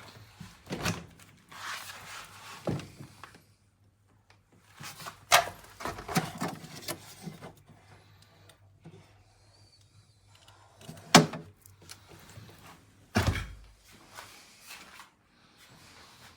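Handling noises: a series of sharp knocks and thuds with rustling between them, the deepest thud about thirteen seconds in.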